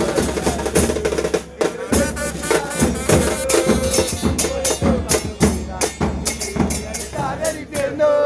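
Drums beaten hard in a fast, dense rhythm, with voices heard over them, typical of a football supporters' band.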